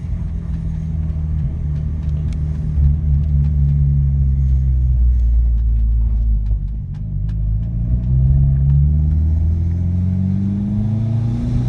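Turbocharged Honda D17 four-cylinder in a Civic coupe pulling under about 8 psi of boost, heard from inside the car. The engine note holds steady, drops around the middle at a gear change, then climbs steadily near the end as it revs up again.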